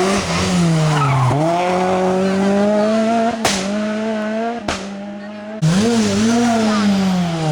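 Rally car's engine taking a hairpin: the revs drop as it brakes in, then climb and hold as it drives out, with tyres squealing. Two sharp cracks come about three and a half and four and a half seconds in, the engine goes quieter for about a second, then cuts back in loudly and the revs rise and fall again.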